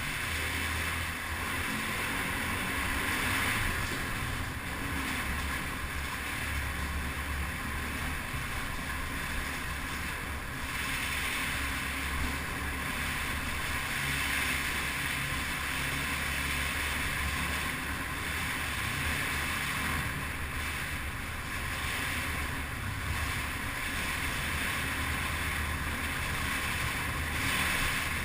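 Yamaha TT250R motorcycle's single-cylinder four-stroke engine running steadily while riding, with wind rushing over the microphone.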